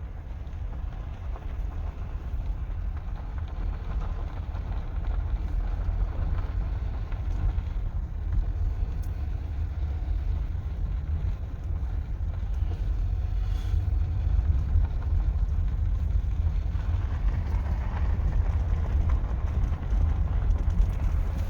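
Steady low rumble of a vehicle with wind buffeting the microphone.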